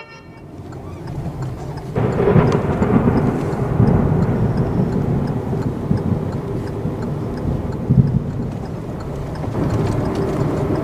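Dust-storm wind buffeting a moving car, with a dense low rumble of wind and road noise heard from inside the cabin. It swells in, then turns louder about two seconds in and stays steady.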